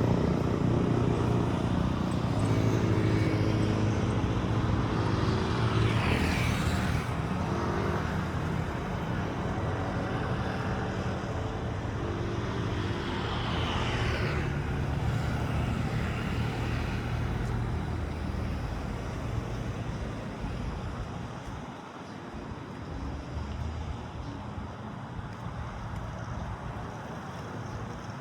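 A motor vehicle engine runs with a steady low hum. Something sweeps past twice, about six and fourteen seconds in. The engine grows fainter after about twenty seconds.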